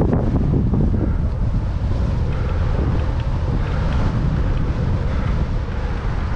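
Strong wind buffeting the microphone of a moving bicycle camera, a loud, rough, steady low rumble.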